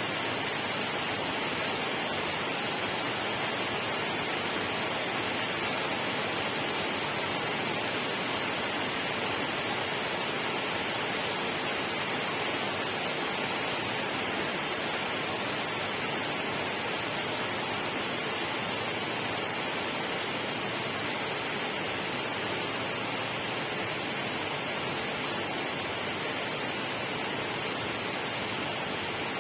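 Steady, unchanging rushing noise, brightest in the upper range, with no separate events.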